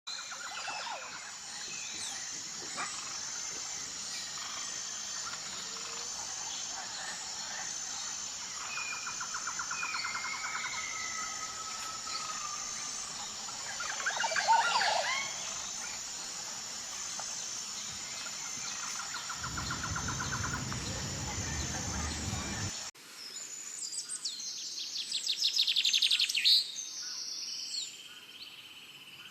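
Wild birds calling and singing over a steady high-pitched pulsing trill, with a low rumble for a few seconds. The sound cuts suddenly to another stretch of loud bird song.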